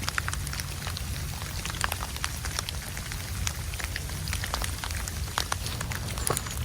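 Blizzard snow and ice pellets pattering on a surface: many light, irregular ticks over a steady low rumble of wind.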